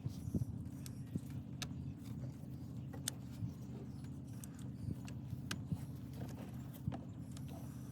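Scattered sharp clicks and light clatter of spark plug wire boots being pushed onto the ignition coils of an LS V8 engine, over a steady low machine hum.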